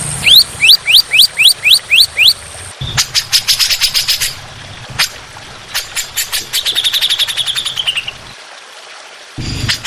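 Songbird song in spliced segments. First comes a run of eight quick rising whistles, then rapid harsh clicking trills, then a fast trill that slides down in pitch; each segment starts and stops abruptly.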